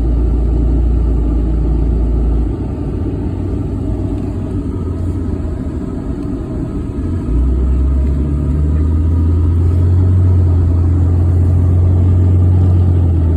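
Steady low rumble of a vehicle driving at road speed, with engine and road noise; the deep drone eases slightly about two seconds in and swells again about seven seconds in.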